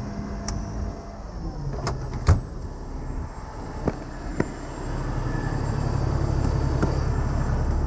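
A vehicle engine running, growing louder from about halfway through, with a few sharp knocks before it; the loudest knock comes about two seconds in.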